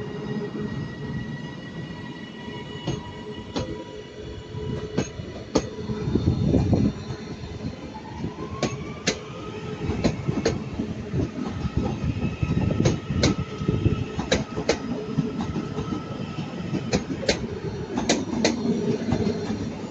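Northern passenger train pulling out of the platform. A whine rises about eight seconds in and then holds steady, while the wheels click more and more often over rail joints and pointwork, over a low running rumble.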